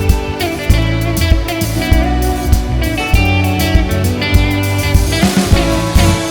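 Band playing an instrumental introduction on guitar and drum kit, with a steady beat.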